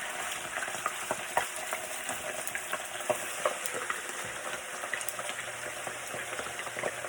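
A bird frying in hot grease in a pan: a steady sizzle with frequent, irregular pops and crackles.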